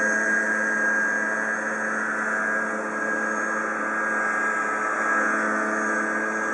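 Kawasaki backpack leaf blower running steadily at a constant speed, blowing snow.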